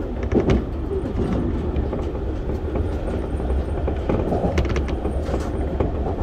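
Keio 1000 series electric multiple unit running at speed, heard from inside the front car: a steady low rumble of wheels on rail with scattered sharp clicks from the track.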